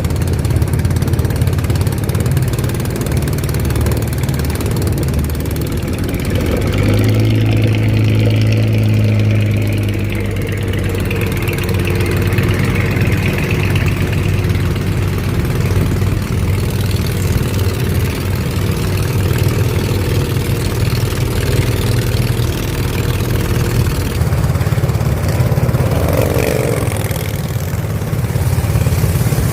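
Boat engine running steadily, a loud low drone that grows stronger and slightly higher about seven seconds in, then settles.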